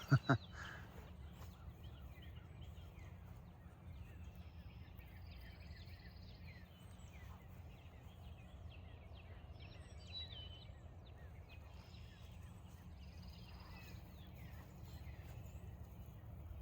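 A chorus of many songbirds calling and singing at once, a busy scatter of short chirps and trills, over a low steady rumble. A brief louder sound cuts in at the very start.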